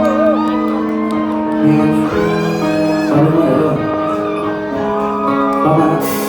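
Live band music with sustained guitar chords and singing voices, and a cymbal crash near the end.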